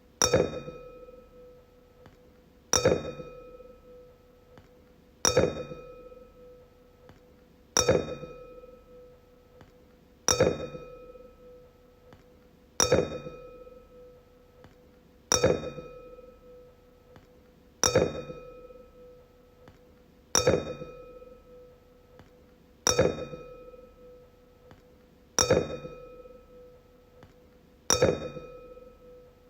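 Wine glass tapped and ringing, twelve times at an even pace of about one tap every two and a half seconds. Each tap is a sharp clink followed by a clear, fading ring with bright higher overtones.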